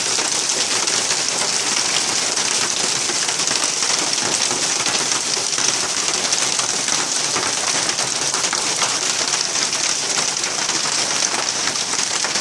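Heavy rain falling steadily in a dense, even downpour during a thunderstorm, with close drops hitting surfaces.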